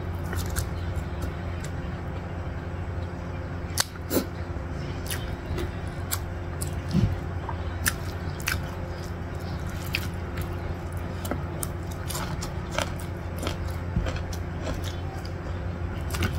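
Close-miked chewing and wet mouth clicks of a person eating rice with her fingers, with scattered short clicks, over a steady low hum.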